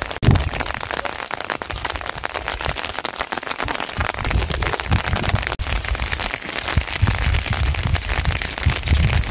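Heavy rain falling, a dense steady crackle of drops hitting surfaces, with irregular low thumps underneath.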